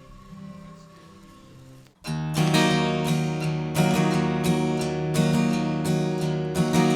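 Acoustic guitar strumming, the introduction of a ballad: after a faint lead-in it comes in suddenly about two seconds in and carries on in steady strokes.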